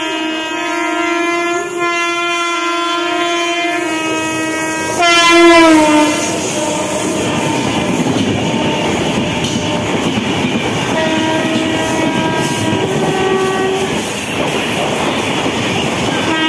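Express train running through at speed. Its electric locomotive's horn sounds steadily as it approaches, gets loudest and drops in pitch as the locomotive passes about five seconds in, then gives way to the continuous rush and wheel noise of the LHB coaches going by. A second horn at a different pitch sounds for a few seconds in the middle of the coach noise.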